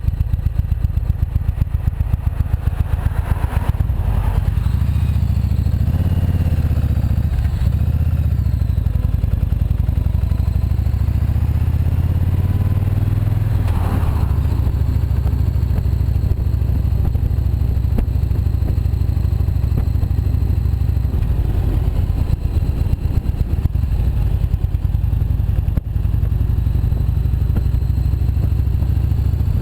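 Motorcycle engine running under way, its pitch rising and falling with throttle and gear changes over the first half, then holding steady.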